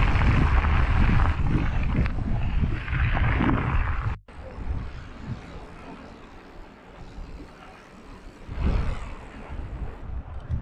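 Wind buffeting an action-camera microphone and tyres rumbling over rough ground during a mountain-bike ride, loud for the first four seconds, then breaking off abruptly into a quieter rumble that swells again near the end.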